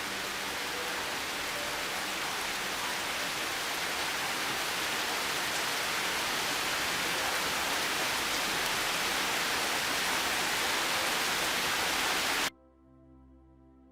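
Steady, even hiss of heavy rain falling, which cuts off suddenly near the end, leaving faint, soft ambient music.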